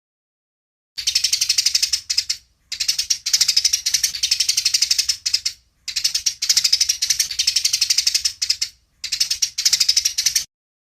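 Eurasian tree sparrows giving rapid, dry chattering calls, the fighting chatter of sparrows squabbling. The calls start about a second in and come in four long bursts of a few seconds each, with short breaks between them.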